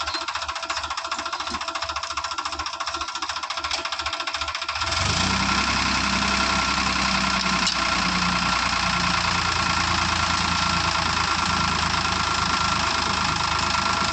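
JCB 3DX backhoe loader's diesel engine running steadily, then revving up to a louder, heavier note about five seconds in as it works under load.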